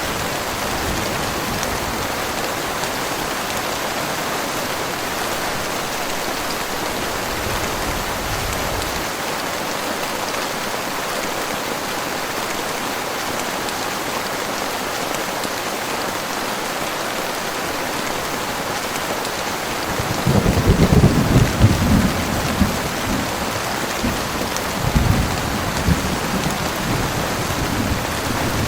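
Heavy rain falling steadily, with thunder rumbling about two-thirds of the way through and again a few seconds later.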